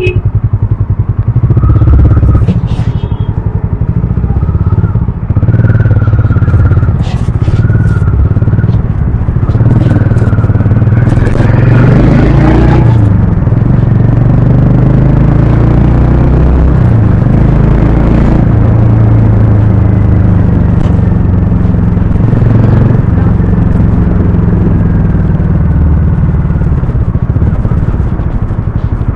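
Harley-Davidson X440's single-cylinder engine and exhaust running while riding, with a couple of seconds of harder revving near the middle.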